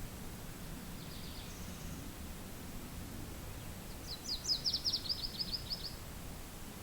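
A small songbird singing a rapid trill of quick, evenly repeated high notes for about two seconds, after a faint short call about a second in, over a low steady wind.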